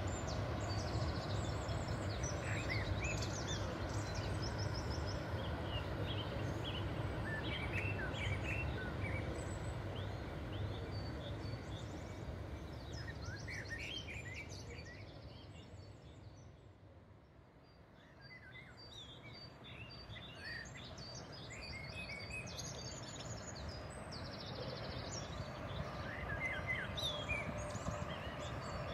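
Low, distant rumble of passing traffic on the Rhine, from a freight train and a river cruise ship, with birds chirping over it. The rumble fades almost away a little past halfway, then builds again near the end.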